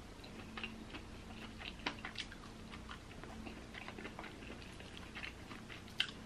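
Quiet chewing with soft mouth clicks, and faint crackling as a fried chicken drumstick is pulled apart by hand. One sharper click comes about six seconds in.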